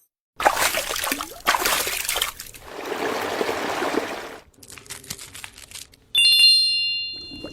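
Water splashing and pouring in bursts, then a steady rush of running water, followed by a few light clicks. About six seconds in, a bright chime rings out and fades.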